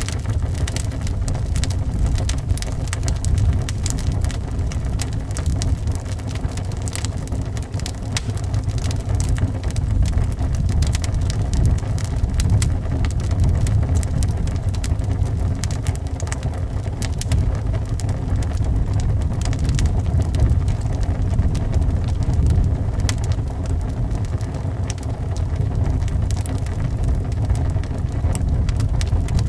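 Wood fire crackling with many small pops over a steady, deep rumble of wind howling around a house.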